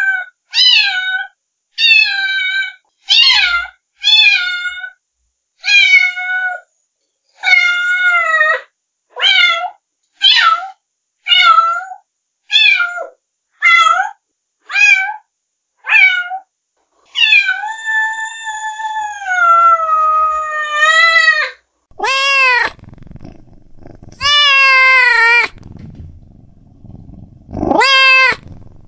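Domestic cat meowing over and over: about fifteen short meows roughly one a second, then one long drawn-out meow, then a few louder meows near the end.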